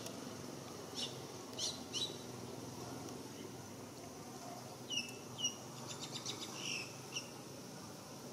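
Small birds chirping in scattered short, high, falling calls: a few in the first two seconds, then a cluster later that includes a quick rattling trill. A steady low background hum runs underneath.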